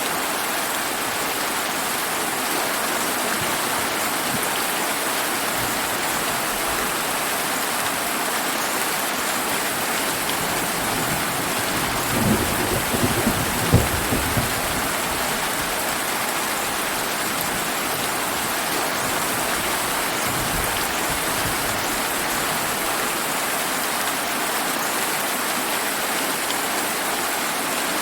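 Steady heavy rain. Midway a roll of thunder rumbles with a few sharp cracks for about two seconds, and a fainter low rumble of thunder follows a few seconds later.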